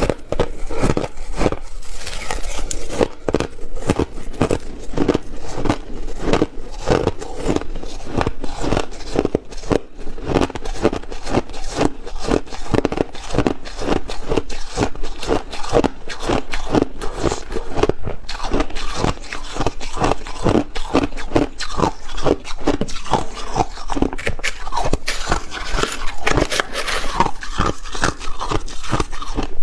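Ice being bitten and chewed: a dense, unbroken run of crisp crunches, several a second.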